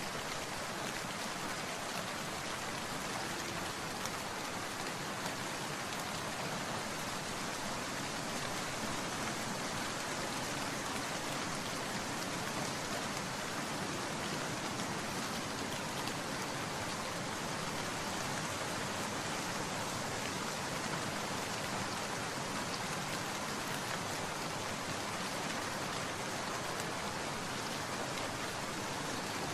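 Steady rain falling, an even hiss of many drops striking surfaces with no pauses or thunder.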